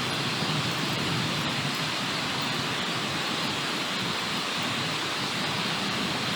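Steady rushing noise, even and unbroken, with a few faint high ticks.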